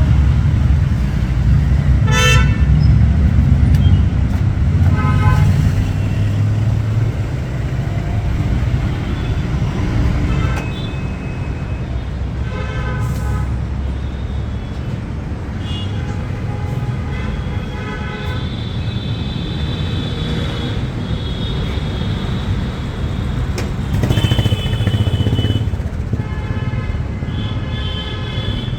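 Road traffic going by, engines running, with vehicle horns honking again and again. Some honks are short beeps; several longer ones are held in the second half.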